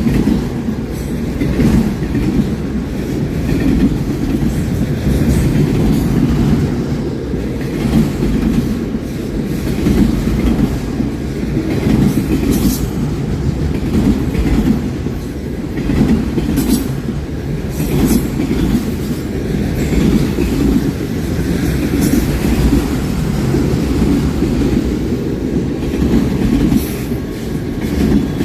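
Train cars rolling past with a steady heavy rumble, the wheels clacking over the rail joints so that the sound swells about every two seconds, with a few brief wheel squeals.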